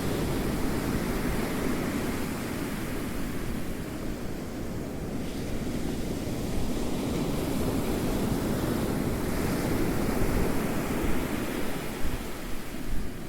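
Ocean waves: a continuous rushing wash that eases off a few seconds in, then builds again.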